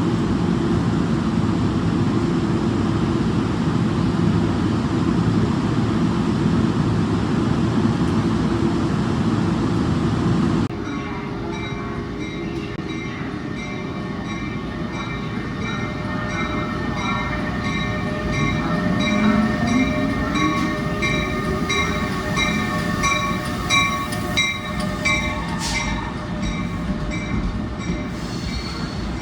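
Passenger train sounds: a steady low rumble of a running train, then, after an abrupt change about a third of the way in, a train with several steady high whines and regular ticking. Partway through, a motor whine rises in pitch.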